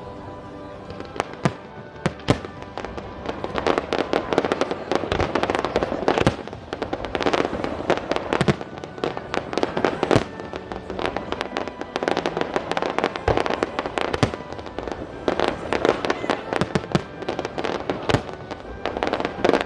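Aerial fireworks display going off: a rapid, continuous barrage of bangs and crackles from many shells bursting in quick succession, with music playing underneath.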